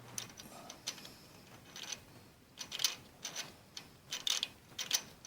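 Small hand tap in a tap wrench being turned in a stud hole of a Ford flathead V8 block, chasing the threads to clear what is left of a broken stud: irregular bursts of metal-on-metal scraping and clicking as the tap is worked back and forth.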